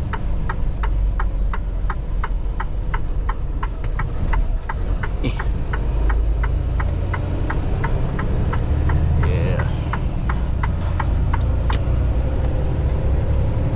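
Semi-truck cab with the diesel engine running as a low rumble, under a steady clicking of the turn-signal flasher at about three to four clicks a second. The clicking stops about two seconds before the end.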